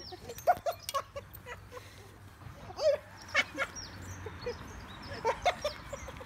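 A litter of seven-week-old cockapoo puppies whimpering and yipping in many short, high squeaks, some falling in pitch, with scattered sharp clicks among them.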